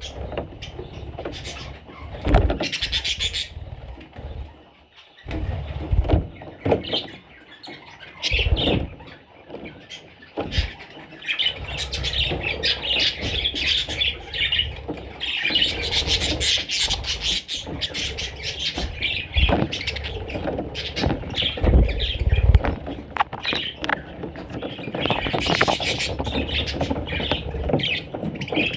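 Budgerigars chirping and chattering in a steady stream of short high squeaky calls, with low bumps now and then.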